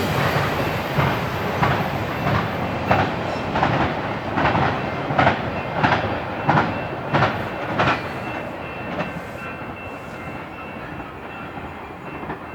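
Wheels of a freight train's intermodal well cars clacking over rail joints in a steady rhythm, about three clacks every two seconds, over a rolling rumble. The sound fades away over the last few seconds.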